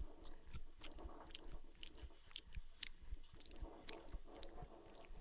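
A person chewing a mouthful of food close to a headset microphone, with irregular small crunches and mouth clicks.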